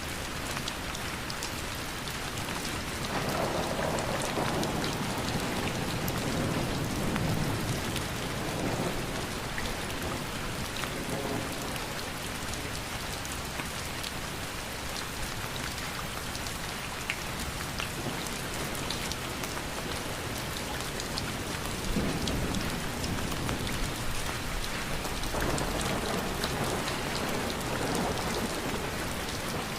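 Steady rain falling, with many fine drop patters and two longer swells of deeper sound, one a few seconds in and one near the end.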